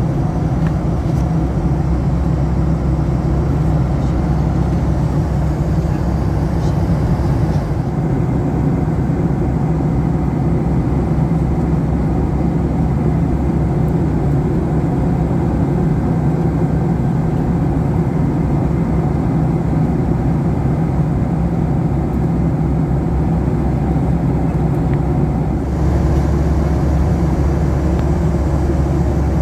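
Steady in-flight cabin noise of a Boeing 737-800: a deep rumble from its CFM56 engines and the airflow past the fuselage. The low rumble shifts abruptly about eight seconds in and again near the end.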